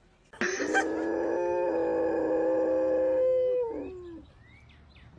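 A dog howling: one long, steady howl of about three and a half seconds, starting about half a second in and sliding down in pitch as it fades out.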